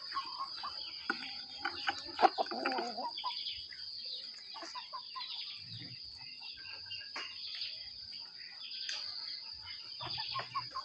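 Hen clucking, its calls busiest and loudest about one to three seconds in, over a steady high-pitched insect drone.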